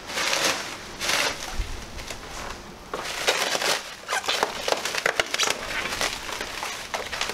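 Packaging around a crated engine being cut and pulled away: irregular bursts of crackling and rustling with sharp clicks.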